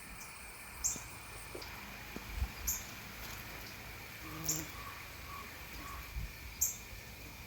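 A songbird giving short, high chirps, four in all, about two seconds apart, over a steady high-pitched hum. A few softer, lower notes come in the middle.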